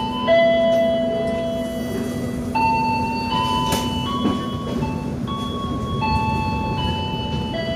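Simple electronic chime melody of clean held notes stepping up and down, played over a train's public-address system, with the steady rumble of the moving train underneath.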